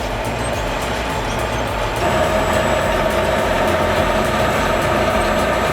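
Heavy diesel machinery running steadily under load, with a whining tone that grows louder about two seconds in.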